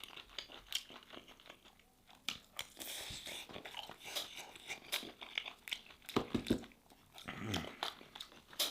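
Close-miked eating: a person chewing a mouthful of stewed beef, with many small wet clicks and smacks. There are a few fuller, deeper mouth sounds around six and seven and a half seconds in.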